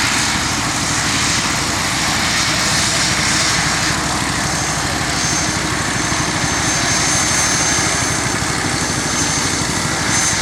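Aircraft engine running steadily, with a thin high whine held from about halfway in.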